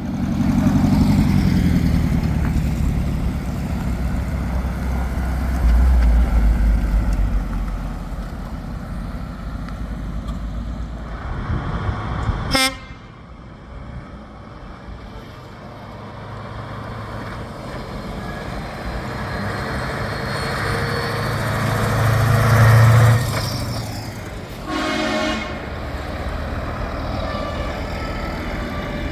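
Heavy trucks driving past with their diesel engines running, one after another, the second swelling louder as it nears. A short horn toot sounds near the end.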